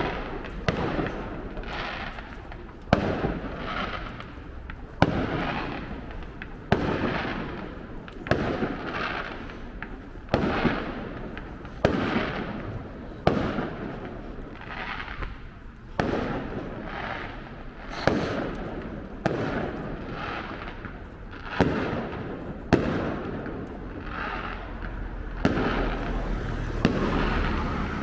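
Fireworks going off in a steady barrage: sharp bangs every second or two, each trailing off in a rolling echo.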